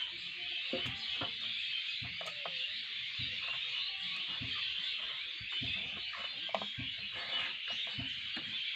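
A dense, steady chorus of many birds chirping, with scattered soft knocks and thuds of plastic bottles being handled and set down.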